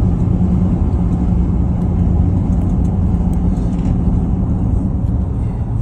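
Car driving along a road: steady engine and tyre rumble with a low hum, heard from inside the car.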